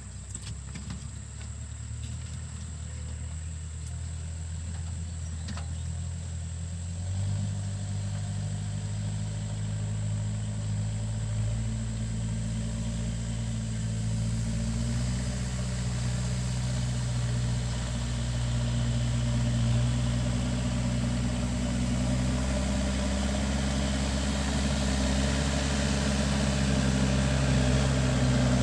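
Backhoe loader's diesel engine running steadily, growing gradually louder; its note steps up about seven seconds in.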